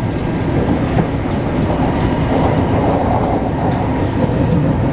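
Taipei Metro C381-type electric train running along the track: a loud, steady rumble of wheels and running gear with a few clicks, growing slightly louder.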